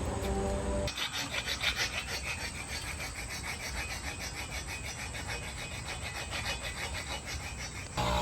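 An abrasive hand tool scraping wood in quick, even back-and-forth strokes. A steady low hum runs for about the first second and cuts off abruptly before the scraping starts.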